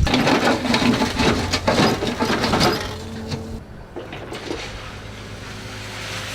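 Heavy road-building machinery working a gravel road: loud crunching and rattling of crushed stone for about the first three seconds, then a quieter steady engine hum.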